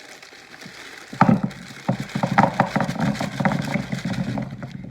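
Frozen meatballs poured from a bag into a plastic Tupperware microwave pressure cooker, clattering in a dense, rapid run of hard knocks that starts about a second in and goes on for several seconds.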